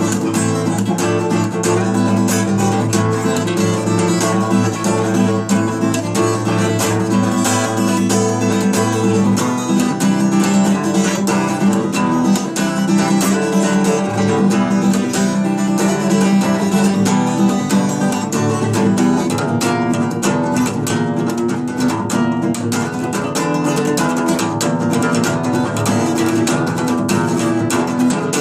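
Acoustic guitar played steadily, strumming and picking chords, with a change in the bass notes about nine seconds in.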